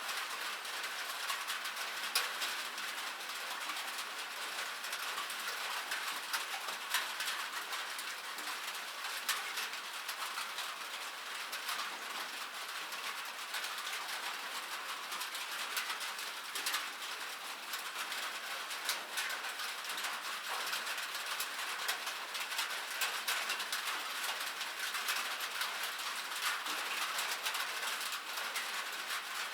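Rain falling on metal: a steady patter made of many sharp, separate drop ticks.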